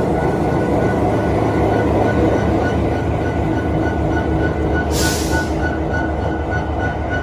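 EMD SD70ACE diesel locomotive's engine running steadily, with a brief hiss about five seconds in.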